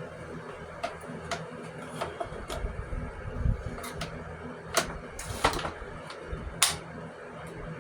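Scattered clicks and knocks, a brief scrape and a dull thump as a homemade AC window insert is turned around and worked into a bus window frame. The loudest knock comes about six and a half seconds in, over a low steady hum.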